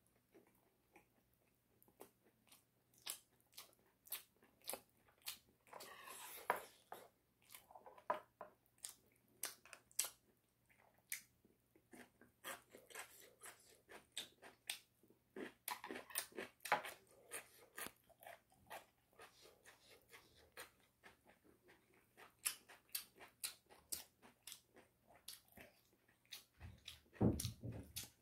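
Close-up chewing and biting of chicken: irregular crisp crunches and wet mouth clicks throughout, with a dull low thump near the end.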